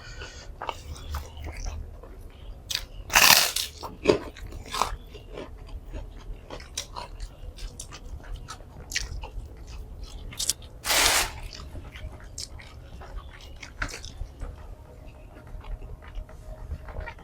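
Close-up eating sounds: chewing with many small mouth clicks and smacks. Two louder crunchy bites come about three seconds and eleven seconds in.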